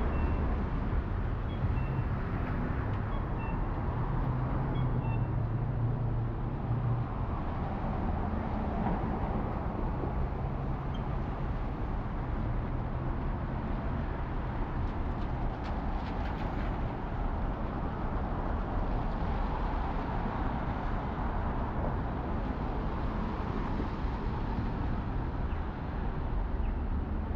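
Steady city street noise in the rain: traffic running on wet roads, with the low hum of a passing engine in the first few seconds.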